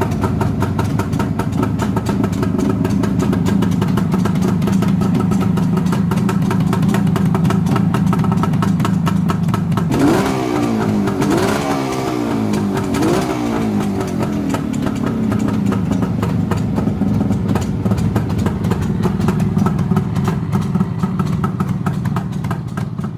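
Suzuki GT750's water-cooled three-cylinder two-stroke engine idling, with a quick run of throttle blips about ten seconds in, each rising in pitch and dropping back, before it settles to idle again.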